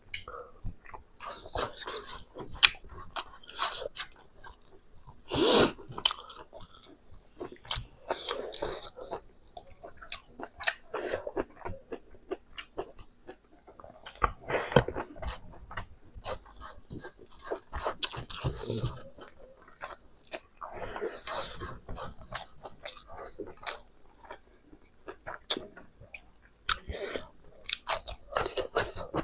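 Close-miked chewing and biting of Naga-style pork, with wet smacking and crunchy crackles coming in irregular bursts.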